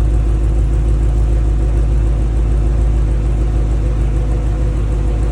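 Mercedes-Benz W211 E55 AMG's supercharged V8 idling steadily after a cold start, a low, even rumble through long-tube headers, race cats, resonators and E63 mufflers on separated dual exhausts with no crossover pipe.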